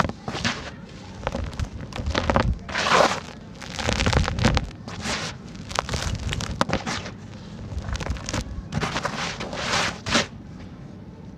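Dry, dusty sand-cement chunks crumbling, with gritty crunching and crackling in uneven bursts. The loudest bursts come about three and four seconds in and again near ten seconds, and it goes quiet shortly before the end.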